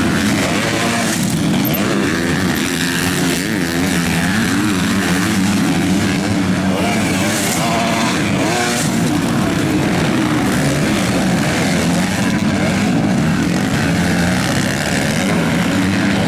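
Several MX2 motocross bikes racing on the track, their engines revving up and down continuously as riders accelerate, shift and back off.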